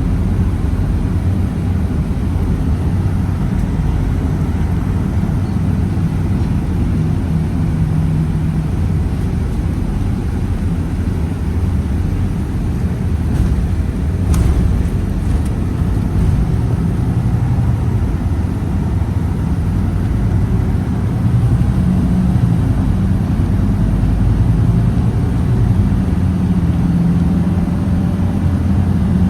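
Scania Citywide city bus with a CNG engine running on the road: a steady low rumble of engine and road noise. The engine tone rises under load a few times.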